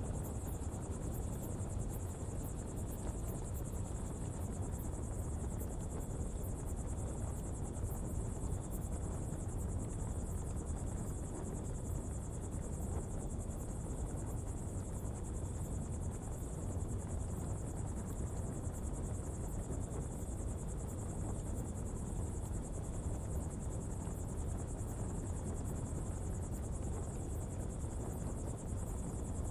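Coal-fuelled pottery fire burning with a steady low rumble, under a continuous high insect trill.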